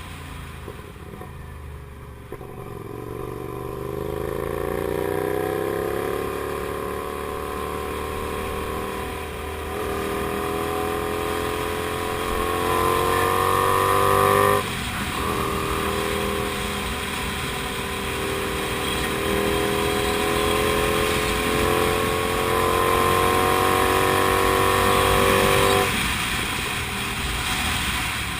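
Comet GTR250 motorcycle's 250 cc V-twin engine pulling under acceleration while riding, its pitch climbing steadily in each gear. It drops for upshifts about ten and fifteen seconds in, then eases off abruptly near the end.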